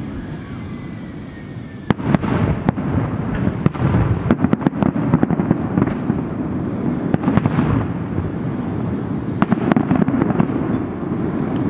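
Fireworks display: from about two seconds in, sharp bangs and crackling shells in clusters over a steady low rumble.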